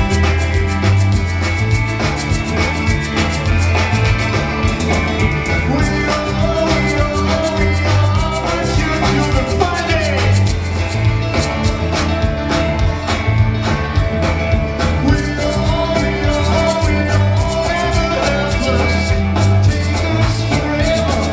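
Live rock band playing a song with a steady drum beat, bass line and guitar, a sliding note about halfway through.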